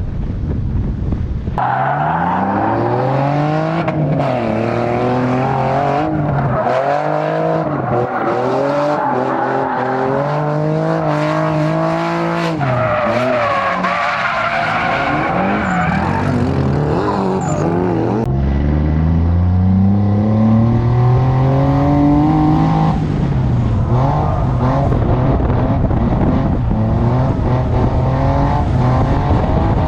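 Drift car's engine revving hard, its pitch climbing and dropping again and again, with tyres squealing and skidding.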